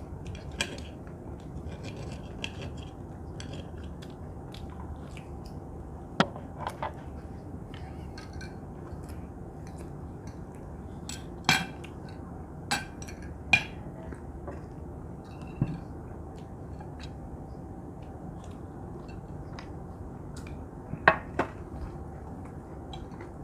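Cutlery clinking and scraping on plates as steak is cut and eaten, with sharp clinks every few seconds over a steady low background hum.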